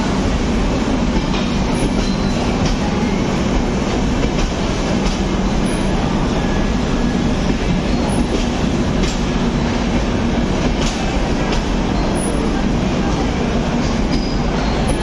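Train coaches rolling slowly past a station platform: a steady, loud rumble of wheels on the rails, with faint wheel clicks over rail joints about once a second.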